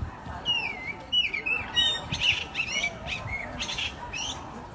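A bird calling in a quick string of sharp chirps and short whistled glides that bend up and down, bunched most densely in the middle, with a last call near the end.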